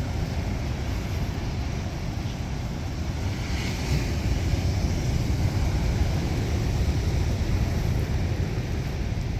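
Strong wind buffeting the microphone over rough storm surf, a steady low rumble with hiss above it. A brighter rush of spray-like hiss rises about four seconds in.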